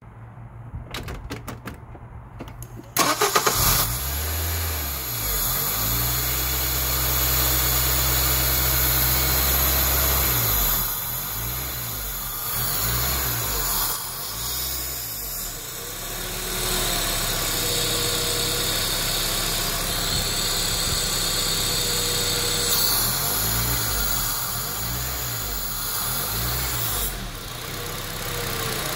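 Acura RSX four-cylinder engine starting about three seconds in, then idling through an open throttle body with its intake removed. In places the idle speed surges up and down repeatedly: the bouncing idle of a faulty brand-new aftermarket idle air control valve, tested by covering the intake hole with a hand.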